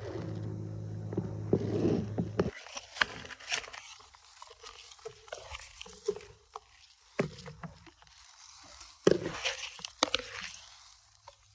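Honda CRF125F dirt bike's single-cylinder engine idling steadily, which stops abruptly about two and a half seconds in. The engine is followed by scattered knocks and crunches, the loudest about nine seconds in.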